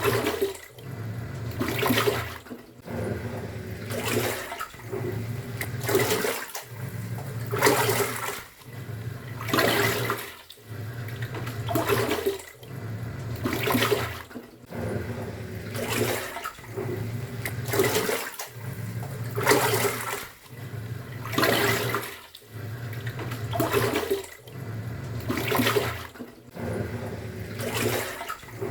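Top-loading pulsator washing machine in its wash cycle: the motor hums as the pulsator turns one way, pauses briefly and turns back, about every two seconds, with water sloshing and surging at each turn.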